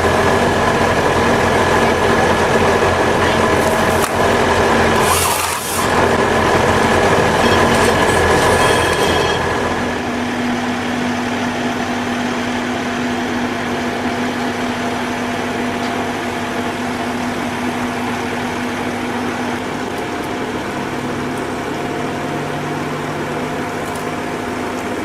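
A heavy machine's diesel engine runs steadily under load. There is a brief hiss about five seconds in, and the pitch and level change about ten seconds in.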